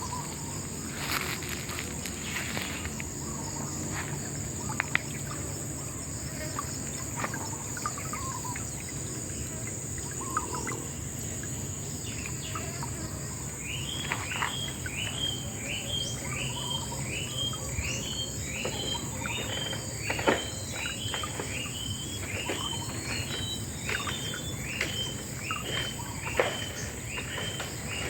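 Insects, crickets by the sound of it, keeping up a steady high-pitched drone. About halfway through, a regular series of short chirps starts, about one and a half a second, with scattered clicks and a low even rush underneath.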